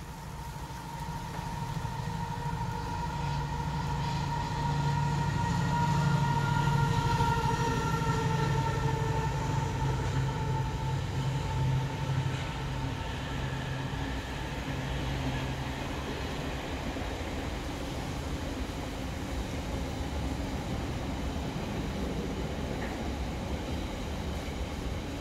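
A train running through the station, its sound building over the first several seconds. A whine fades away by about twelve seconds in, and a steady rumble of the train carries on after it.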